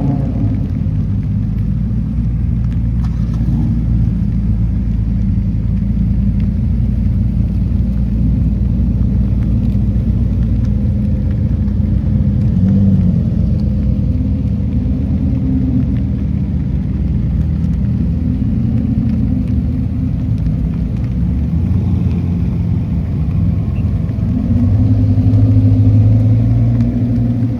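Sports car engines rumbling at low speed as the cars pull away one after another, with the exhaust note swelling louder near the end.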